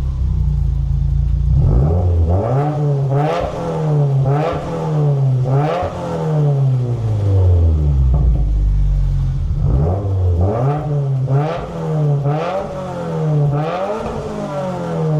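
A Subaru WRX's turbocharged flat-four is revved through a Nameless axleback muffler-delete exhaust. It is a string of quick throttle blips, each rising and falling back to idle. A first group of about four blips starts about two seconds in, and a second group of about four follows near the end.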